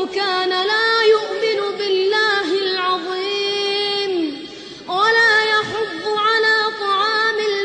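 Quran recitation in the melodic tajweed style: one high voice chanting, holding long ornamented notes, with a brief pause for breath about four and a half seconds in.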